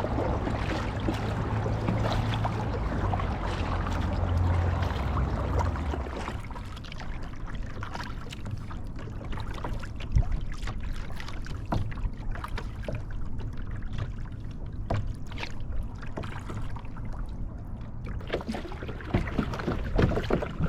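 Kayak paddle strokes in water: irregular splashes and drips from the blades. A louder steady rushing noise with a low hum lies under the first six seconds or so, then drops away.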